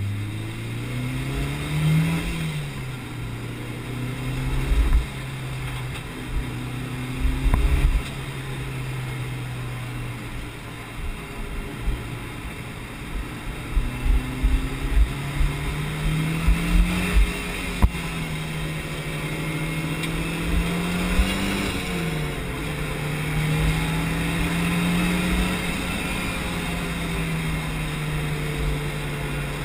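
Mitsubishi Lancer Evolution VI Tommi Mäkinen Edition's turbocharged four-cylinder engine heard from inside the cabin while being driven on a circuit: revs climb and then fall sharply about two seconds in and again about twenty-one seconds in, running steadier in between. Bunches of low thumps come through the middle.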